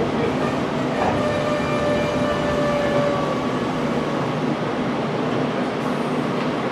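Meitetsu 6000-series electric train heard from inside the carriage as it brakes to a stop at a station: a steady rumble, with a thin whine for a couple of seconds just before it halts.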